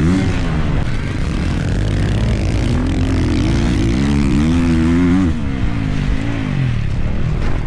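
Dirt bike engine running at full throttle and easing off in turn, its pitch rising and falling over a heavy low rumble; the revs climb about four seconds in, then drop away after five seconds.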